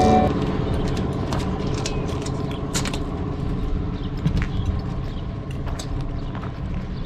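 An engine running steadily with a low, evenly pulsing rumble, and a few scattered sharp clicks over it; a guitar intro tune cuts off right at the start.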